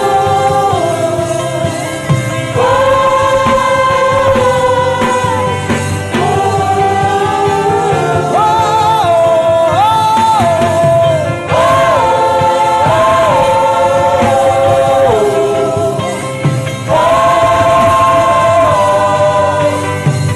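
A man humming a slow worship melody in long phrases of held, gliding notes, each phrase lasting a few seconds.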